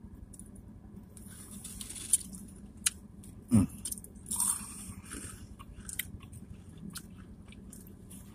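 Close-up eating sounds of a crispy fried chicken sandwich being bitten and chewed: crunches and sharp mouth clicks. A louder low sound comes about three and a half seconds in, followed by a short crunch.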